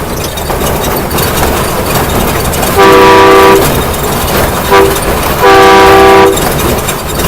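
The horn of a train being ridden sounds three times over the steady running of its engine: a long blast, a short toot, then another long blast.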